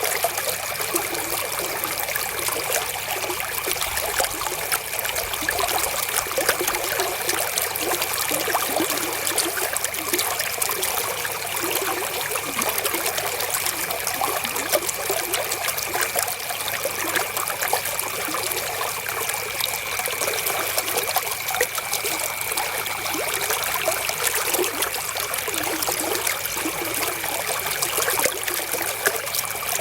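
River water flowing: a steady trickling babble made of many small splashes, unchanging throughout.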